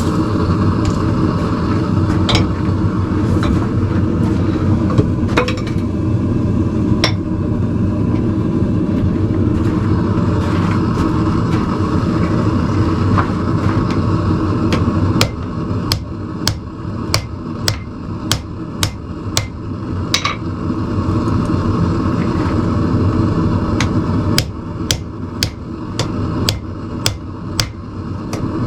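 Hammer blows on hot steel at the anvil as tong jaws are forged. There are a few scattered strikes at first, then two runs of steady blows about one and a half a second, from about halfway and again near the end, over the steady roar of the forge.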